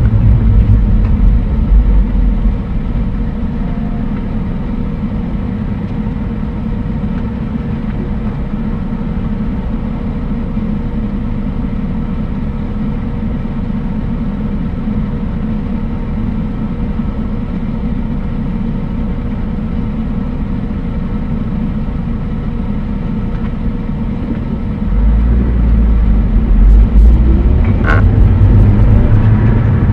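A car driving: steady low engine and road rumble, getting louder about 25 seconds in.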